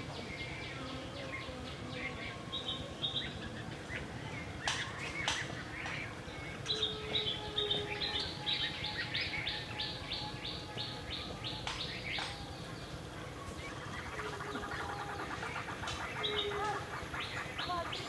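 Small birds chirping and calling, with a fast even run of repeated high chirps in the middle and a few sharp clicks.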